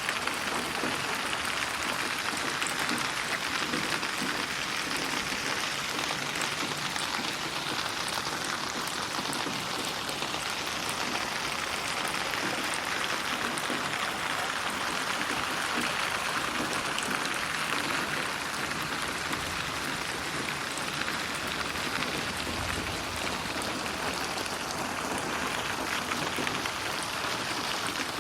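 Steady rainfall, a dense even patter of drops on a surface, with a brief low rumble about 23 seconds in.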